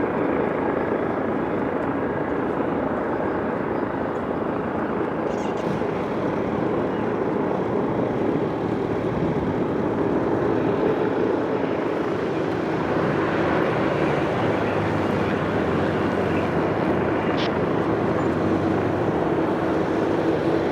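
Jet airliner engines passing close by: a steady, loud roar with a droning hum in it that settles slightly lower in pitch in the second half.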